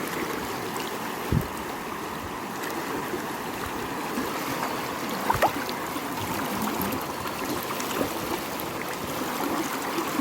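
Swollen river water rushing steadily after heavy rain, with two short knocks, about a second in and again near the middle.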